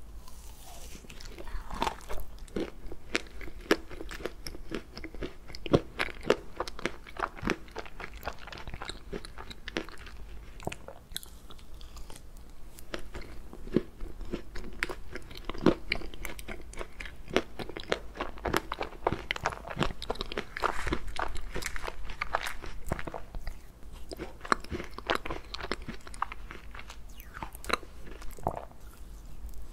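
Close-miked chewing of a mouthful of ice cream cake, with many quick, crisp crunches from its crunchy bits and soft wet mouth sounds between them.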